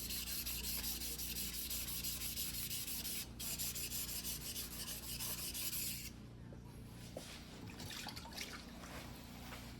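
Single-bevel white-steel fuguhiki sashimi knife blade being rubbed back and forth on a whetstone by hand, in steady rapid strokes with a short break a little after three seconds. About six seconds in, the strokes stop and give way to a few lighter, scattered scrapes.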